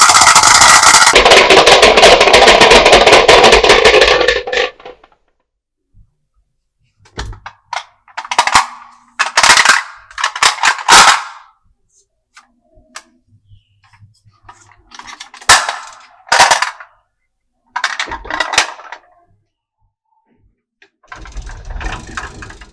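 Marbles clattering down a toy marble run: a dense, loud rattle of many marbles for the first four seconds or so, then several separate short runs of clicking and rolling with pauses between them.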